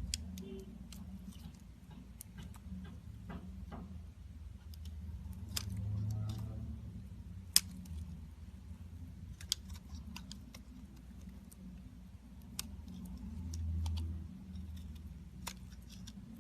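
Knife cutting into bars of soap: scattered sharp cracks and snaps at irregular intervals, the loudest about seven and a half seconds in, over a low steady hum.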